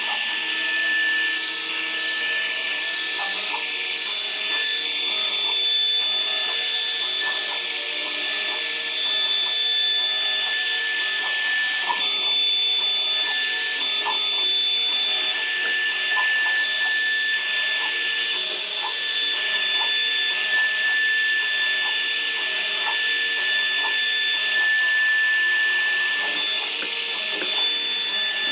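Woodworking power tool running steadily: a constant high whine over a hiss, with no start-up or stop.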